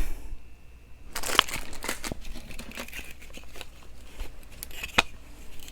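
Packaging being handled, crinkling and rustling in scattered crackles and clicks as items are taken out of a box.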